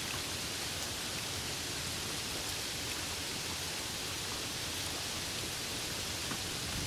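Steady rain: an even, unbroken hiss with no thunder.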